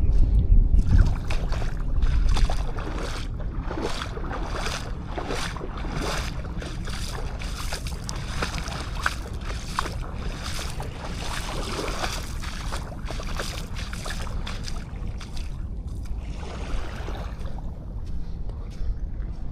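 Footsteps on beach sand, about two a second, with wind buffeting the camera microphone, strongest about the first second. The steps stop about three seconds before the end.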